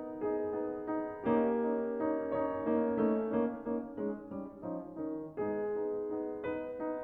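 Piano music, a melody of notes and chords following each other every fraction of a second, with a louder passage starting about a second in.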